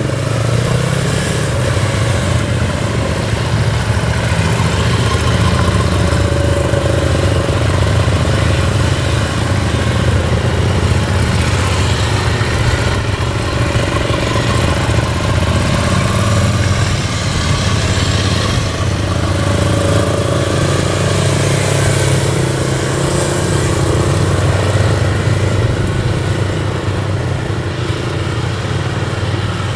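Motorcycle engine running steadily, with no sharp revving or stops.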